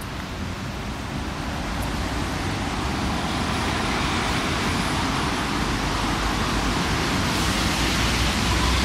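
Road traffic noise: a steady hiss that grows gradually louder throughout.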